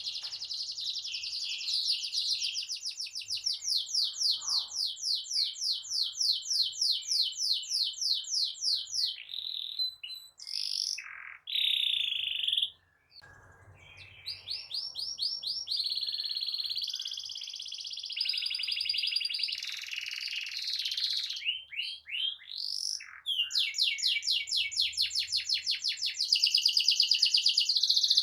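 Domestic canary singing long, fast rolling trills. The trills are broken by a few short varied notes and a brief pause about halfway through. The loudest roll comes near the end.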